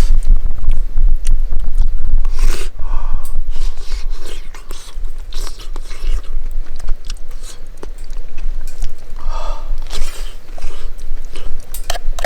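A person chewing and eating close to the microphone, with scattered short clicks and scrapes over a steady low rumble.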